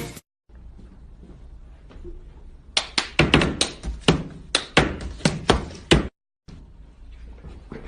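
A quick, uneven run of about a dozen sharp knocks or thunks over about three seconds, starting a few seconds in, against a faint background.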